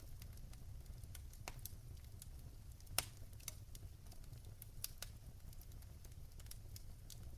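Wood fire crackling in a fireplace: scattered sharp pops and snaps over a low steady rumble, the loudest pop about three seconds in.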